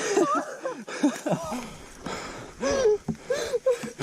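People's voices: short cries and exclamations that rise and fall in pitch, without clear words.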